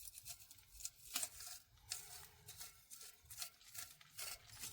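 A brush scrubbing and scraping carbon deposits from inside a coked-up diesel heater's heat exchanger: a run of faint, irregular scratchy strokes, several a second.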